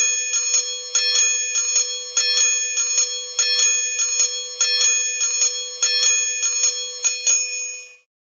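A bell struck rapidly and repeatedly, about three strikes a second with a harder strike every second or so. It rings on between strikes and stops about eight seconds in.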